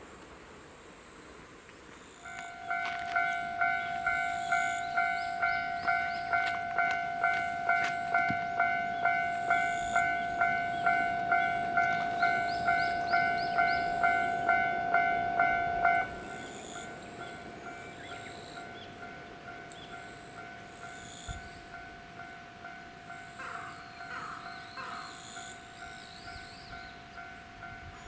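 Railway level-crossing warning bell ringing, about two dings a second. About halfway through the loud ringing stops and a fainter ringing of the same kind carries on.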